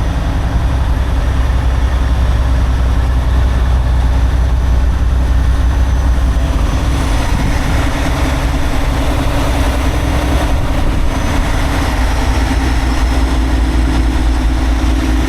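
Semi-truck's diesel engine running with a steady deep drone; more hiss joins in about seven seconds in.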